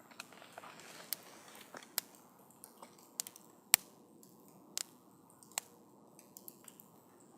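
Wood campfire crackling: irregular sharp pops and snaps, the loudest about halfway through, over a faint steady hiss.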